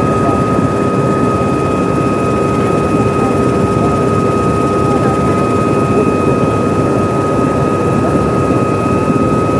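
Helicopter running, a loud, steady drone of rotor and engine noise with a constant whine held at a few fixed pitches.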